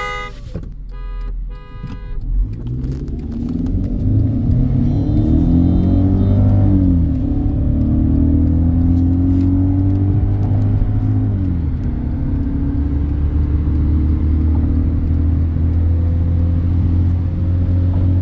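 A car horn beeps in short blasts as the start signal. Then a petrol car engine, heard from inside the cabin, accelerates at full throttle, rising in pitch with upshifts about 7 and 12 seconds in, and settles into a steady high-speed drone.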